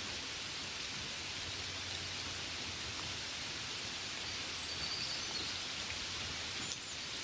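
Gentle rain falling steadily on a window: an even hiss with a few faint drop taps.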